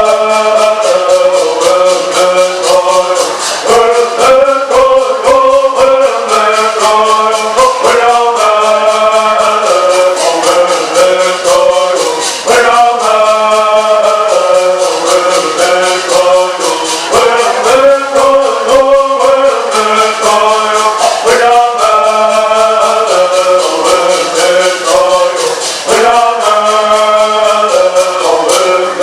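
Bird song sung in unison by a group of men, in phrases with short breaks, over gourd rattles shaken in a steady, quick rhythm.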